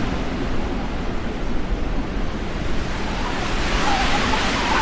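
Storm wind rushing and buffeting against the camera microphone: a steady rushing noise with an uneven low rumble.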